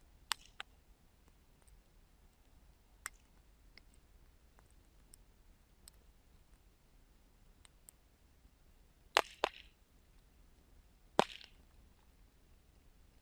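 Burning wood crackling: sparse, sharp pops over a low background, with a close pair of louder pops about nine seconds in and the loudest single pop about eleven seconds in.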